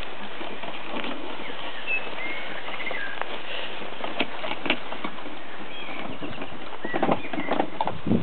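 A few short bird chirps over a steady outdoor hiss, then scattered knocks and a cluster of clattering knocks near the end.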